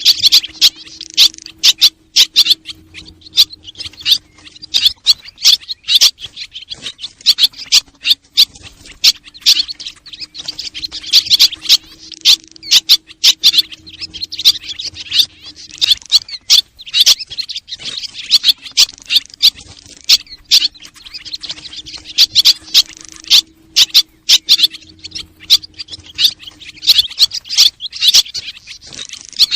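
Recorded swallow calls used as a lure: a dense, rapid chirping twitter, looping about every 11 seconds over a faint steady hum.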